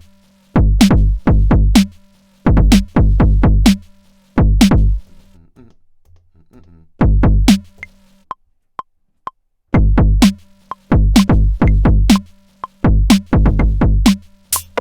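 Electronic drum samples triggered by hand on a Maschine+ groovebox: deep kick-drum hits with a falling pitch, played in irregular clusters of two to four, with pauses in between, and a few faint ticks in the longer pause.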